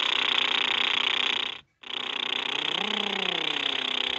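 Cartoon airplane engine sound effect: a steady rushing hiss that breaks off briefly about one and a half seconds in, then resumes with a tone that rises and falls in its middle.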